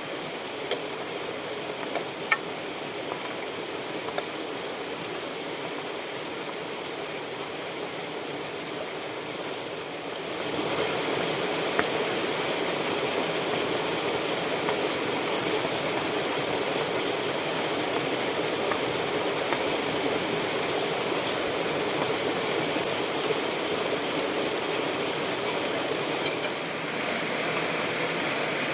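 Steady rushing hiss of a rain-swollen stream flowing hard, with a few light clicks in the first couple of seconds; it grows a little louder about ten seconds in.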